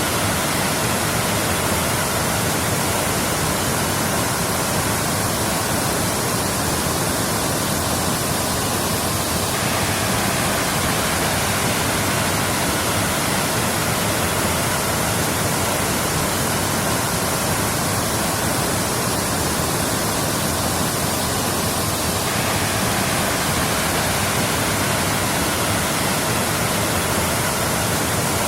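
Waterfall rushing steadily, a constant hiss of falling water with no break. Its tone shifts slightly and abruptly twice.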